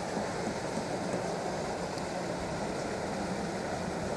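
Steady rushing noise with a faint low hum, aboard a small electric rental boat under way.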